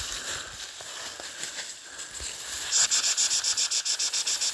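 A dog panting fast and close, short breathy strokes about ten a second, starting a little under three seconds in.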